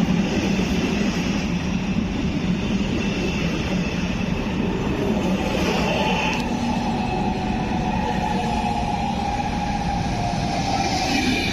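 Train running through a railway station: a steady rumble of wheels and running gear, with a humming tone joining about halfway through.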